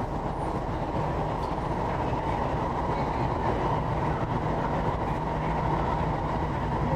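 A Korean-built MTR East Rail Line electric train running between stations, heard from inside the carriage: a steady low rumble with no announcement or door chime.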